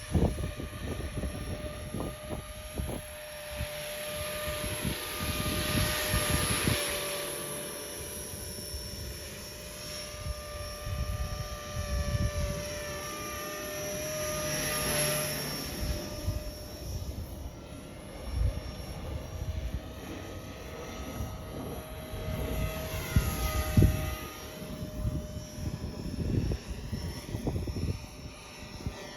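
Electric RC helicopter (T-Rex 450 mechanics under an EC 145 scale body) flying, its motor and rotor whine holding a steady pitch while it swells three times as it passes close. Gusts of strong wind buffet the microphone throughout with low rumbling thumps.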